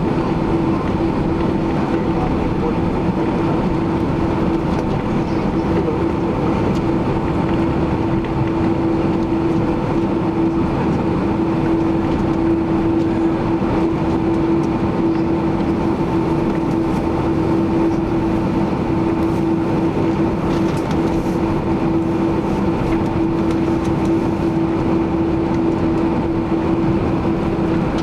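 Boeing 767-300ER jet engines running steadily, heard inside the cabin: a constant tone over an even rushing noise.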